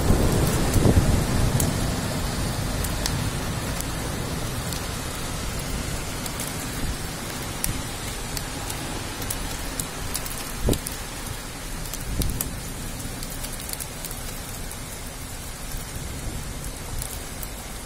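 A thunderstorm downpour: heavy rain on the street and nearby surfaces, with a low thunder rumble dying away in the first couple of seconds. The rain eases off gradually, with sharp ticks of single drops close by and a couple of dull knocks in the second half.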